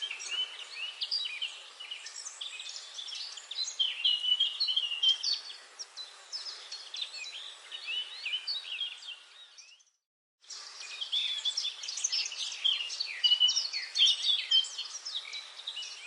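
A dense chorus of many birds chirping and calling at once, with a sudden gap of complete silence lasting about half a second roughly ten seconds in.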